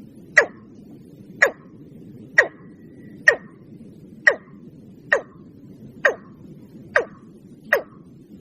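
Watercock calling: a short, sharp note that falls in pitch, repeated about once a second, nine times, over a steady low hiss.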